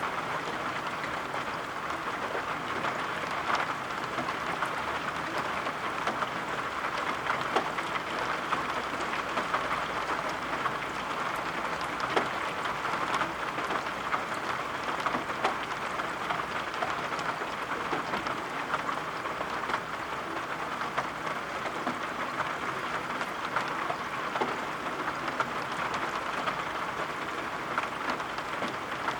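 Steady rain, with many small drops tapping sharply throughout.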